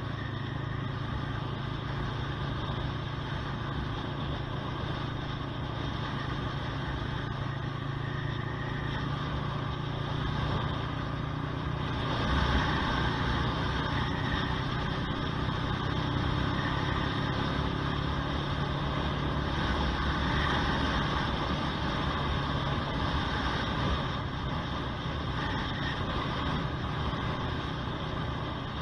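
Honda CBR125R's single-cylinder four-stroke engine running steadily while riding, with wind rushing over the action camera. It gets louder about twelve seconds in and eases back again a few seconds before the end.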